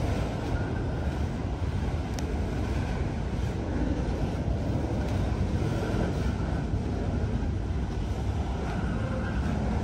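Freight train cars rolling past on the rails, a steady low rumble of wheels and rail, with wind buffeting the microphone.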